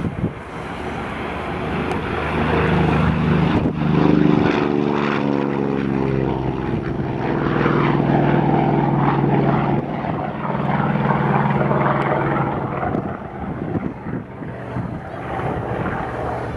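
Boeing B-29 Superfortress's four Wright R-3350 radial engines droning at power as the bomber passes, the sound building over the first few seconds, holding loud through the middle and fading near the end.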